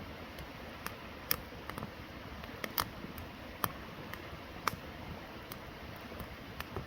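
Wood campfire crackling: irregular sharp pops and ticks over a steady background hiss.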